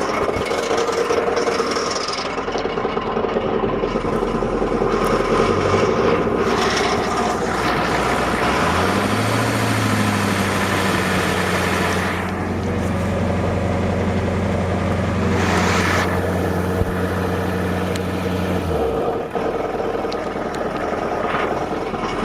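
1987 Ford F250's 7.3-litre IDI diesel V8 running with an odd grinding noise. The engine is revved up about eight seconds in, held steady for about ten seconds, then dropped back to idle. The owner reports the grinding is worst at idle and goes away around 1500 rpm, and suspects a pushrod wearing a hole in a rocker arm.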